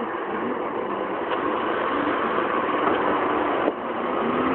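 Suzuki Samurai's engine running steadily at low revs while the 4x4 sits stuck in a flooded mud hole, with a brief drop in sound about three and a half seconds in.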